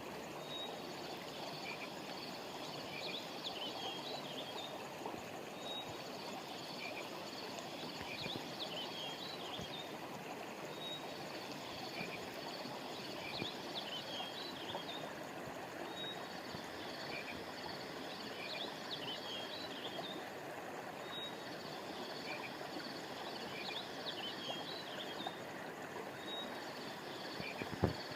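A stream of water flowing steadily. Over it, a short cluster of high chirps repeats in the same pattern about every five seconds, as in a looped nature recording. A brief low knock comes near the end.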